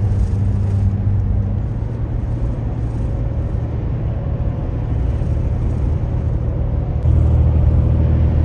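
Tow vehicle driving on the road: a steady low engine drone with road noise, which steps up and gets louder about seven seconds in.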